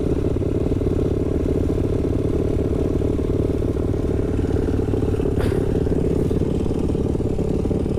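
Dirt bike engine idling steadily, with a single short click about five and a half seconds in.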